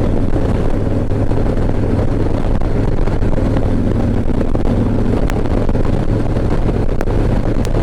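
Harley-Davidson V-twin motorcycle engine running steadily under way, with wind rushing over a helmet-mounted microphone.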